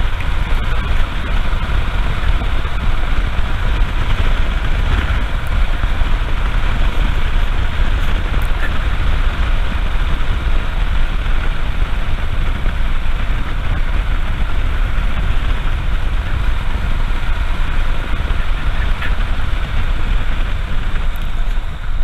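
Royal Enfield Himalayan's single-cylinder engine running at a steady cruise, under a loud, even rush of wind and road noise on the rider's microphone.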